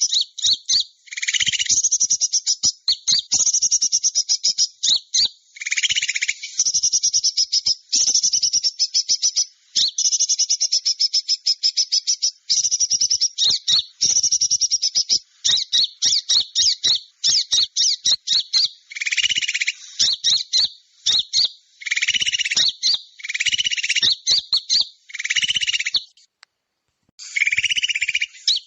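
Bird-trapping lure call of small birds: rapid, high-pitched chittering trills in repeated bursts with short gaps, some with lower buzzy notes mixed in. The calls break off briefly about 26 seconds in.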